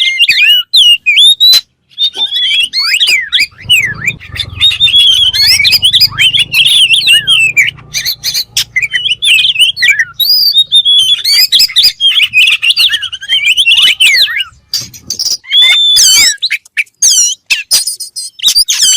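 Oriental magpie-robin (kacer) singing loudly and without let-up: a rapid run of varied whistles, chirps and trills, with sharp clicks among them and a couple of brief pauses.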